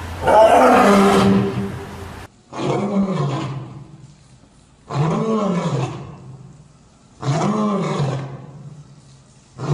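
An animal roaring in a series of long calls, about four in all, repeating every two and a half seconds or so. Each call rises and then falls in pitch.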